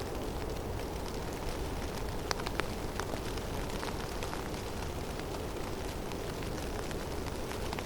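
Snowstorm in a forest: a steady low rushing of wind, with scattered light ticks of falling snow striking nearby surfaces.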